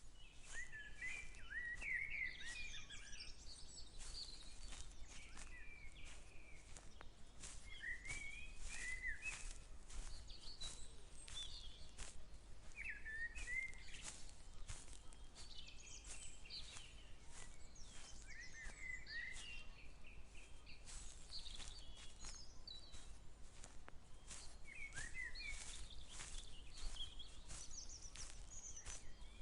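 Songbirds singing short, warbling phrases every couple of seconds, over frequent soft clicks and rustles from footsteps while walking.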